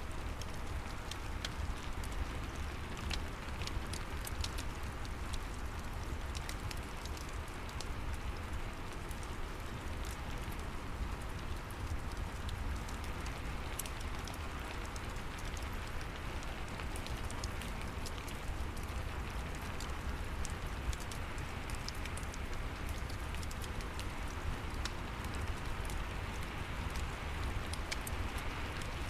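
Steady rain falling, with a fireplace crackling: a constant hiss with scattered sharp crackles and a low rumble underneath.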